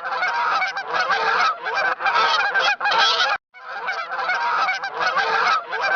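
A flock of geese honking, many calls overlapping, with a brief break a little past halfway.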